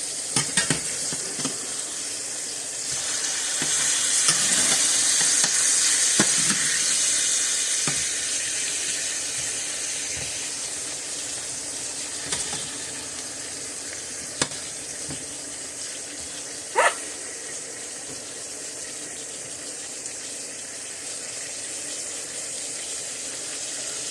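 Steaks sizzling in a hot frying pan, the sizzle swelling louder for several seconds starting about three seconds in. A few short sharp knocks or clinks against the pan stand out, the loudest about two-thirds of the way through.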